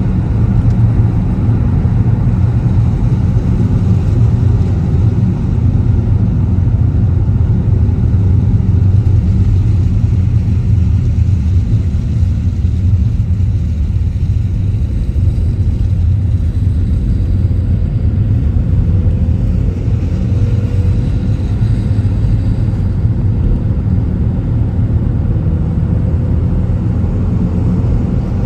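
Car driving along, a steady low rumble of tyres and engine, with a faint rising whine twice in the second half.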